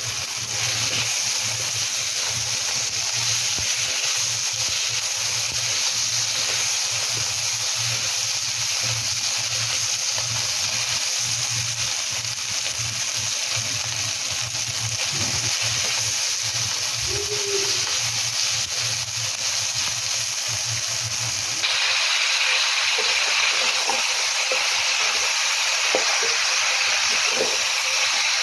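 Chicken nugget pieces, onion and tomato sizzling steadily in oil in a wok, over a low hum. About two-thirds of the way through the hum stops and the sizzle turns brighter, with squash, long beans and bitter melon now in the wok being stirred with a spatula.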